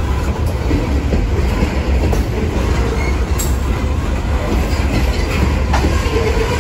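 Freight train of open-top hopper cars rolling past close by: a steady, heavy rumble of steel wheels on rail with scattered clicks.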